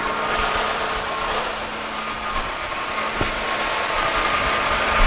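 A 2013 Hyundai Sonata's four-cylinder engine idling steadily, a constant hum over an even hiss, with a faint knock about three seconds in.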